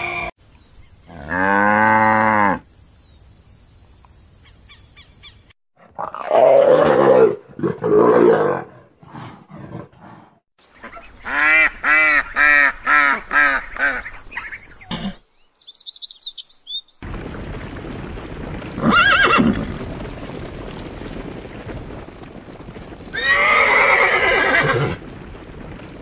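Several separate animal calls, one after another with short gaps between them. Near the middle comes a run of about six evenly spaced quacks from mallard ducks.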